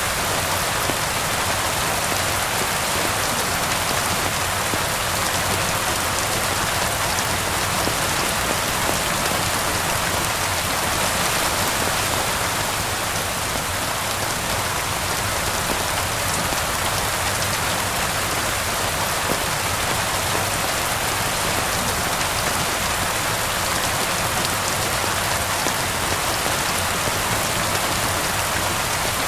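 Steady rain falling on surfaces, an even hiss with no change, with a fireplace's faint crackles mixed in.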